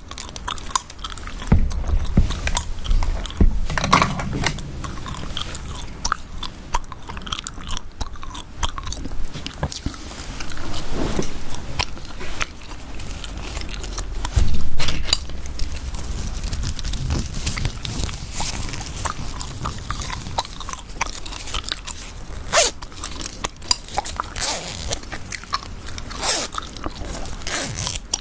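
Close-miked chewing gum being chewed, a steady run of wet smacks and clicks of the mouth. A few low thumps come through, the loudest about halfway.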